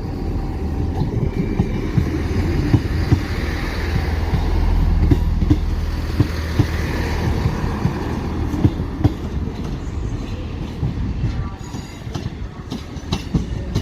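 Class 158 diesel multiple unit pulling out under power: a steady low engine rumble with the wheels clicking over rail joints and points. Brief high wheel squeals come in near the end as it draws away.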